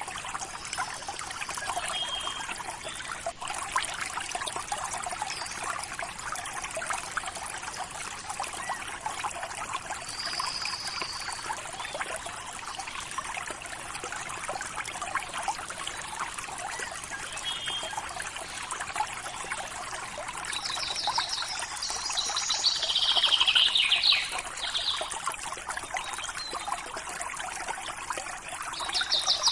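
River water trickling and burbling steadily. Short bird chirps come through it now and then, and about three quarters of the way in there is a louder bird call of quick trills falling in pitch.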